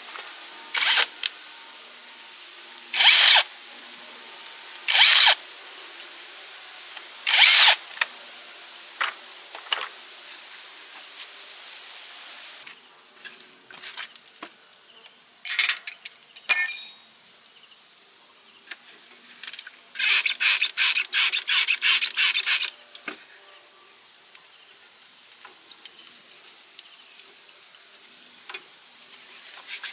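Scraping strokes of a hand tool: four separate strokes spaced about two seconds apart, two more later on, then a quick even run of short strokes lasting about two and a half seconds.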